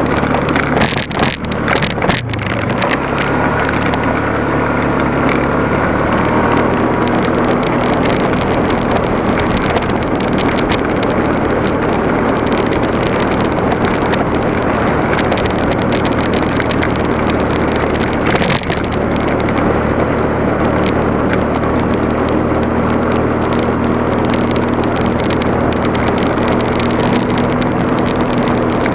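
Motorcycle engine running steadily while riding, with wind and road noise, a few knocks in the first couple of seconds and another one past the middle.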